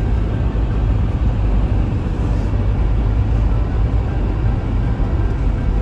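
Steady low rumble of a car being driven, engine and tyre noise as heard inside the cabin.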